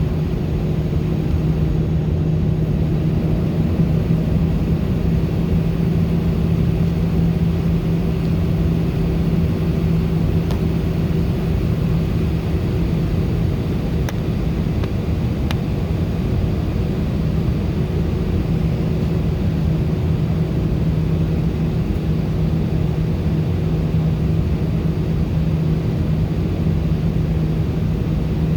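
Steady cabin noise inside an Airbus A319: a constant low hum with a rush of air, unchanging throughout.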